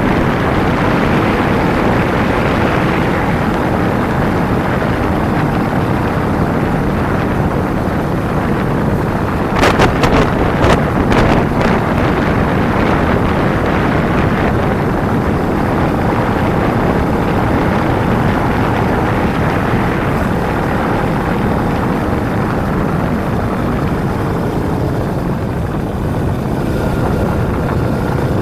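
Wind rushing over the microphone of a camera riding on a Kawasaki Ninja 250, with the motorcycle's parallel-twin engine running underneath. A few sharp knocks about ten seconds in.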